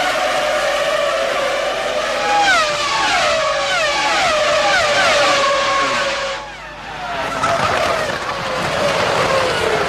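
Formula One V10 engine at high revs, then a quick run of about seven downshifts under braking, each one dropping the pitch in a short step. After a brief dip in the sound, engine tone falls slowly again as the car runs on.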